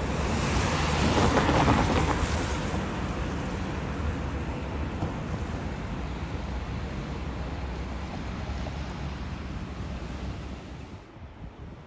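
A train running past, its rumble and rushing noise loudest about a second or two in, then fading steadily and dropping away near the end.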